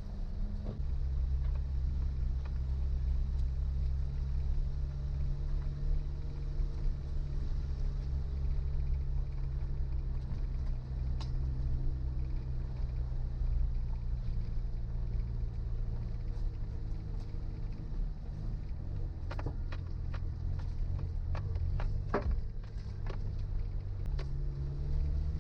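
Suzuki Jimny's engine running steadily at low revs while driving a rough forest track, with a cluster of sharp knocks and clicks in the last few seconds and a change in engine note near the end.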